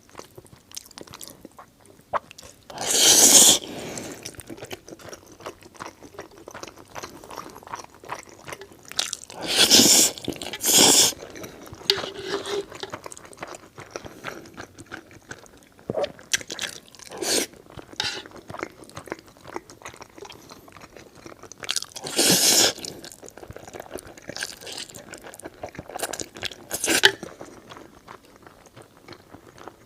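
Close-miked eating of eel and noodles: continual chewing and small mouth noises, with about five louder bursts of a second or so.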